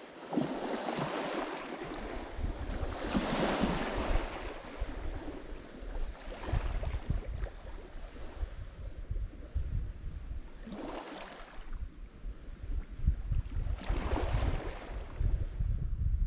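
Lake Michigan waves breaking on the shore, several rushing washes a few seconds apart. Low wind rumble on the microphone underneath.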